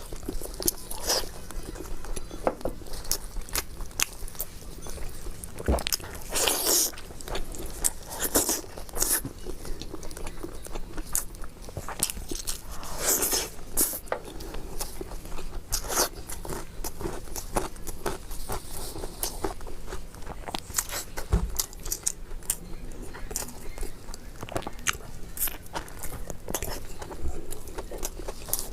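Close-miked biting and chewing of braised pork leg ("pistol leg"): many short crisp chewing clicks, with louder bites every few seconds.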